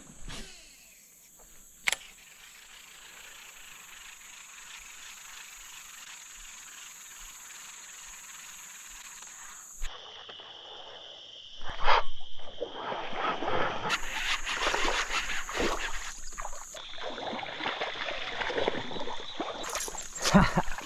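Outdoor creek ambience with a steady high-pitched insect buzz that shifts pitch abruptly partway through. From about twelve seconds in, louder crackling and rustling noise with short clicks comes in.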